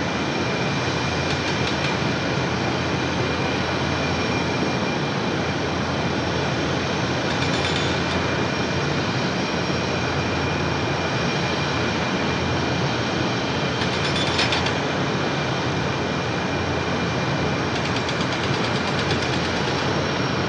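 F-117 Nighthawk's jet engines running steadily as the aircraft taxis: a constant rush with a steady high whine over it, and a few brief crackles.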